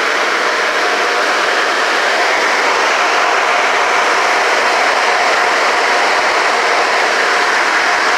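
Automatic car wash running: a loud, steady rushing noise with a faint steady tone.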